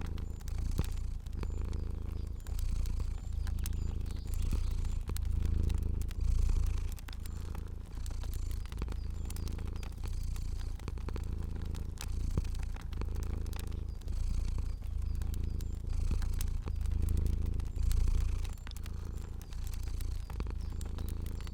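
Cat purring with a low rumble that swells and fades with each breath, every second or two. Small crackles and pops of a fire are scattered over it.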